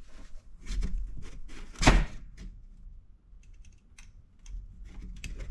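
Clicks and knocks of small parts being handled, with one louder knock about two seconds in and lighter ticks after it.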